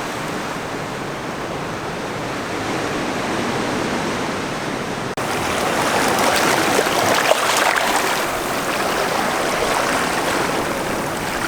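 Steady rushing water. Partway through it jumps abruptly to a louder, brighter rush.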